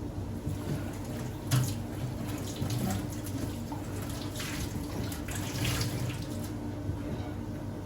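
Water running from a tap into a sink, with irregular splashing and a steady low hum underneath. A sharp knock comes about one and a half seconds in.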